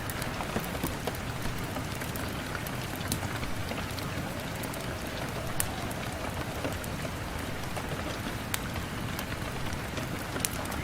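Steady rain falling on a window pane, an even hiss with scattered sharp taps of single drops.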